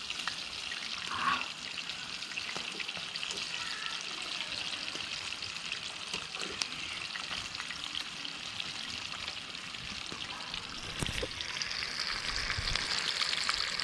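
Chicken leg pieces frying in hot oil: a steady sizzle with fine crackling pops that grows louder near the end, with a few low knocks from the pan.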